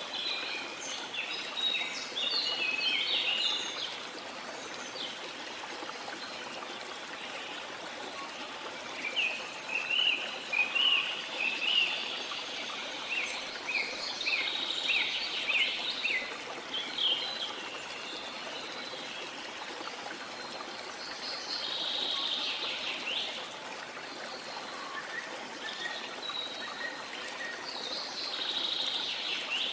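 Steady rush of a waterfall, with birds singing and chirping over it in bouts: a flurry near the start, a longer run of quick chirps in the middle, and shorter calls near the end.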